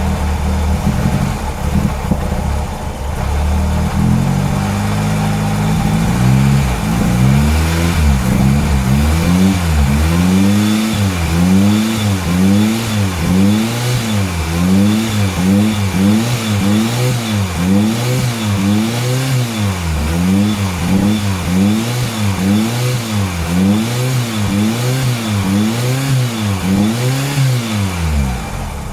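Mitsubishi Celeste engine idling, then revved again and again in quick throttle blips, each rising and falling in pitch about once a second, before settling back to idle near the end.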